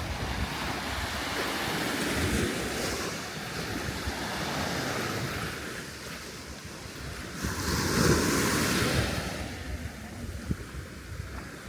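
Sea waves washing onto the shore, the surf swelling and falling back, loudest about eight seconds in, with wind rumbling on the microphone.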